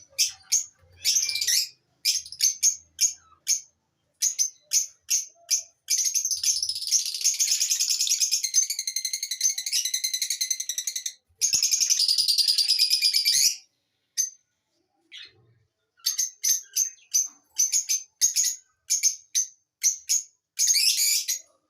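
Lovebirds chirping: short, sharp high chirps in quick succession, breaking into two long runs of rapid, continuous chattering about a third of the way in, then a short lull and more chirps.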